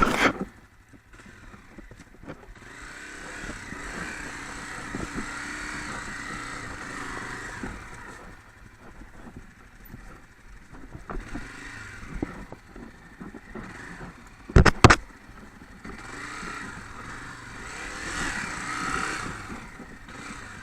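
A motorcycle engine running at a distance, its pitch wavering as it swells up and fades twice. There is a sharp double knock about fifteen seconds in.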